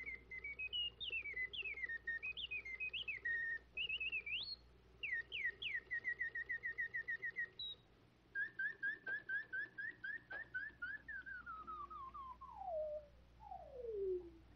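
A caged bird's whistled song: quick chirps, trills and runs of evenly repeated notes. Near the end it turns into a string of falling glides, each lower and slower than the last.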